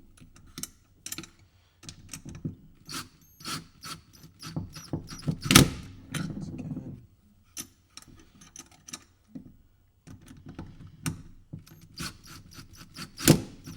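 Irregular clicks, taps and knocks of hand tools and metal hardware being handled while a sprocket is bolted onto a kart wheel, with two sharper knocks, one about five and a half seconds in and one near the end.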